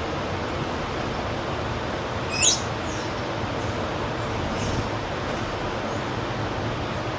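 A wild bird gives one loud, short call about two and a half seconds in that sweeps steeply down in pitch, followed a couple of seconds later by fainter high chirps, over steady traffic noise.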